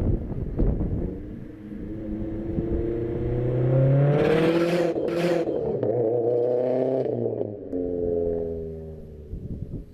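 Subaru flat-four engine through an aftermarket exhaust, revving up, holding at its loudest for a few seconds, then easing off with the note falling away.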